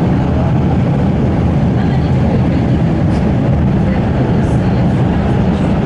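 Cabin noise of an MTR Tung Chung Line K-train running at speed: a loud, steady low rumble of the wheels on the track and the running gear.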